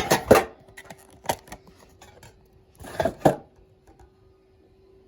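A Pokémon card booster pack and cards being handled: a few sharp crinkles and taps, the loudest near the start and a pair about three seconds in. A faint steady hum lies underneath.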